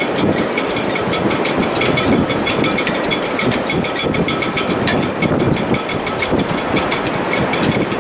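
Sailboat shrouds in heavy weather: a steady rush of wind noise through the rigging with faint held whistling tones and a fast, continuous rattling tick.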